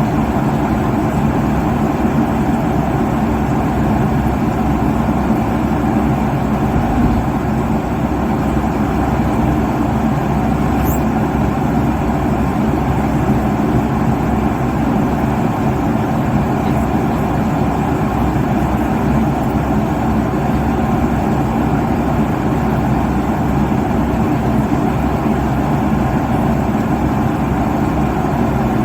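Steady roar of an airliner cabin in cruise: engine and airflow noise, even and unbroken, heaviest in the low and middle range.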